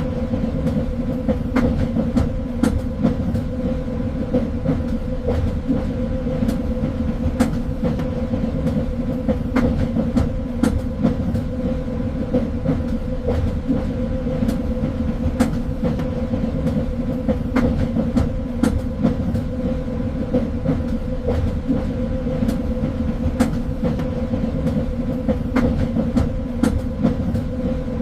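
Train running along the rails: a steady rumble with a constant hum, and scattered sharp clicks from the wheels and track.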